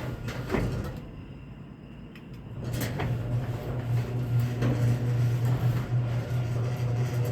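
Chamberlain PD210 garage door opener running and moving the door, a steady low motor hum with rattle. The hum drops away about a second in, then starts again with a click just under three seconds in and runs on steadily.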